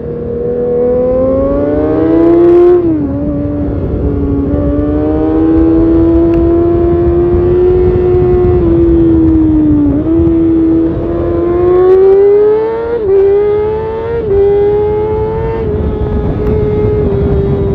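Kawasaki Ninja ZX-6R's inline-four engine at high revs through an Arrow titanium race exhaust, pulling hard and climbing in pitch, with sudden drops as it shifts up about three seconds in and several more in the second half. Wind rush runs underneath.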